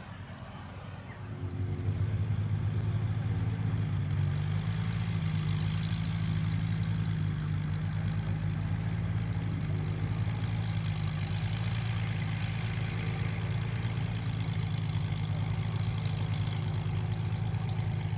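A warbird's piston aero-engine running steadily on the ground at a low, even pace. It comes in abruptly about a second and a half in.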